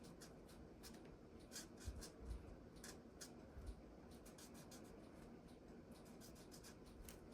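Faint scratching of a Stampin' Blends alcohol marker's bullet tip colouring in on paper, with many small scattered ticks and a couple of soft low thumps.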